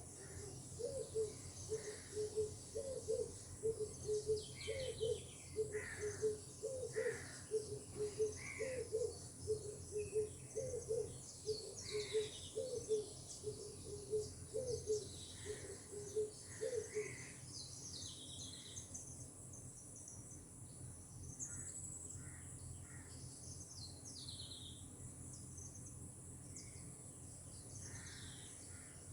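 Birds calling outdoors. For about the first seventeen seconds, one bird repeats a low note several times a second, over scattered higher chirps and whistles from other birds and a steady high insect buzz.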